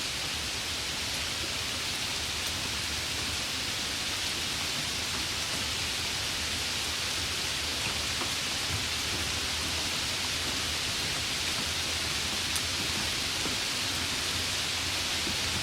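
Steady rain falling: a dense, even hiss with an occasional faint drop tick.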